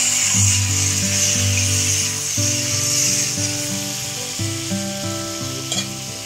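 Pieces of elephant foot yam sizzling as they fry in oil in a wok, stirred with a metal spatula, the sizzle fading near the end. Background music plays throughout, and there is a short tap near the end.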